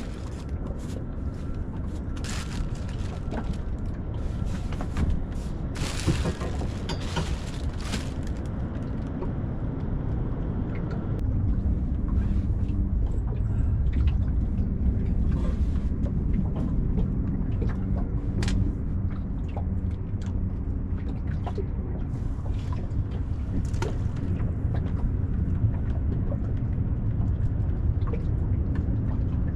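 Wind rumbling on the microphone aboard a small fishing boat, with scattered knocks; the rumble grows louder about eleven seconds in.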